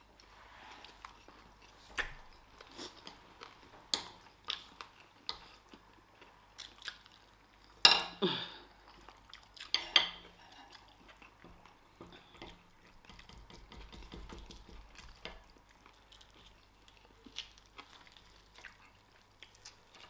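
Metal spoons and forks clinking and scraping against plates as people eat rice and stew, in scattered sharp clicks. The loudest clatters come about eight and ten seconds in.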